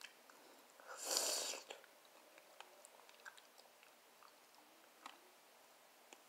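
A person chewing and biting fried barbecue ribs close to the microphone: soft mouth clicks and small crunches. There is one short breathy rush of air about a second in.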